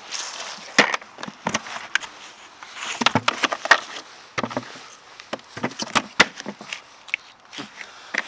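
Fallen twigs and small branches snapping and crackling among dry leaves, in irregular sharp cracks with rustling between them; the loudest cracks come about a second in, around three seconds in and around six seconds in.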